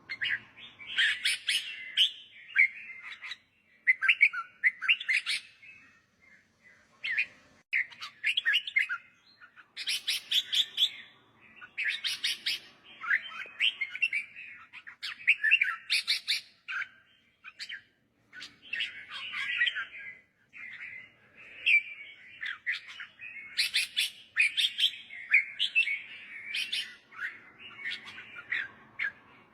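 Red-whiskered bulbul singing: short, chirpy song phrases repeated every second or two, with brief pauses between.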